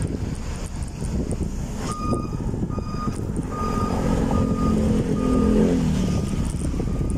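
A vehicle's reversing alarm beeps at an even pace, about one beep every 0.8 seconds, starting about two seconds in. An engine swells louder through the middle seconds, over a steady low rumble of wind and road noise.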